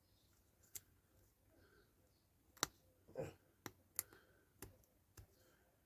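Faint, scattered sharp clicks and taps, about six in all with one duller knock in the middle, from small tools and parts being handled while a diecast model car is taken apart.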